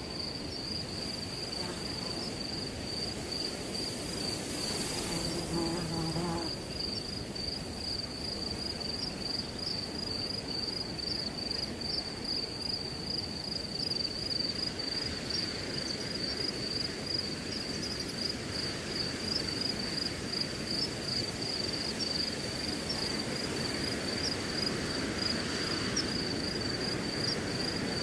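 Crickets chirping in a steady, fast-pulsing high trill, over the even hiss of wind through grass. A short, low pitched hum is heard about five seconds in.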